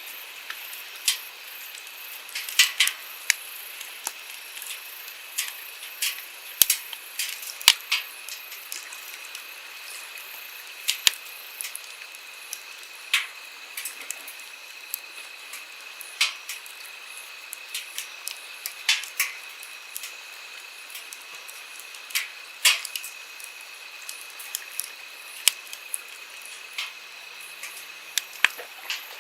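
Wood campfire crackling, with irregular sharp snaps and pops, some loud, over the steady hiss of a flowing stream.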